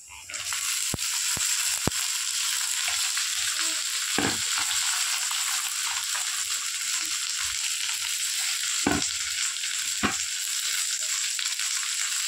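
Chopped okra and sliced onions sizzling in hot oil in an iron kadai. The sizzle starts suddenly as the okra is tipped into the pan, then holds steady, with a handful of sharp clicks over it.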